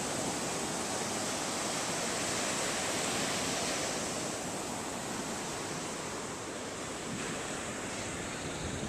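Ocean surf washing onto a beach, a steady rush of waves that eases slightly about four seconds in.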